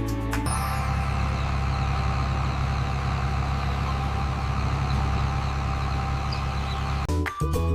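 A tractor engine idling steadily. Music cuts in near the end.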